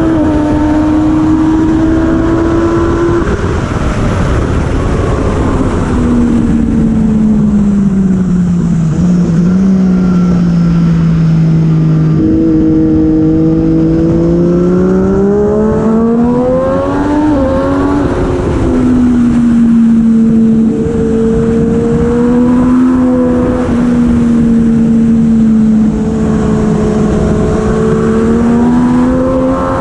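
Heavyweight superbike engine at racing speed over heavy wind rush. The engine pitch steps down about three seconds in and sinks for several seconds, jumps up around twelve seconds and climbs, then steps down again around eighteen seconds and holds fairly steady: gear changes through braking and acceleration.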